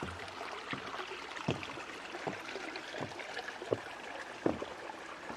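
Small stream babbling over stones: a steady wash of running water with irregular small plops and splashes, several a second.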